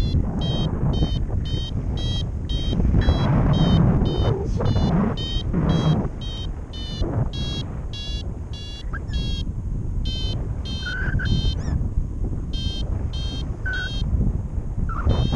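Flight variometer beeping rapidly and steadily, about two to three short high beeps a second, the climb tone that signals the glider is rising in lift, over wind rushing across the microphone.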